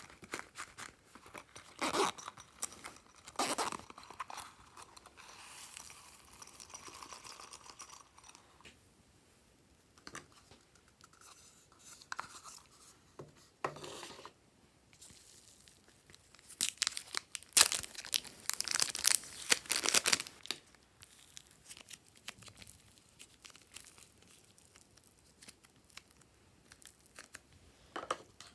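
Glossy slime being worked by hand, pressed and stretched, giving irregular bursts of sticky crackling and clicking. The loudest stretch comes about two-thirds of the way through.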